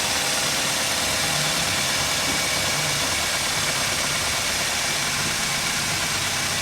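Toyota Corolla XLi engine idling steadily.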